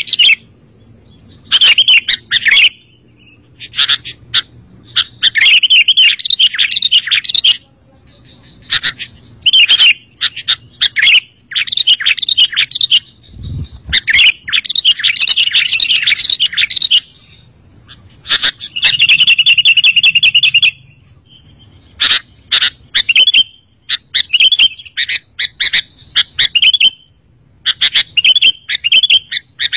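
Sooty-headed bulbul (kutilang) singing loud, quick bubbly chirping phrases in bursts of one to three seconds with short pauses between, with a rapid even trill about two-thirds of the way through. This is lure song, used to call in and set off other kutilang.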